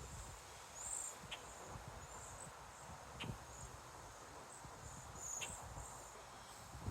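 Faint, high, irregular chirping of crickets, with a few soft ticks about two seconds apart.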